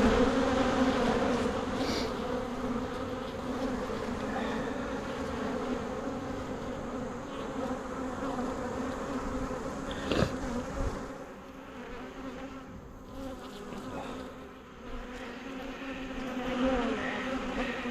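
Honeybees buzzing in a steady hum around an open hive, with a single sharp knock about ten seconds in.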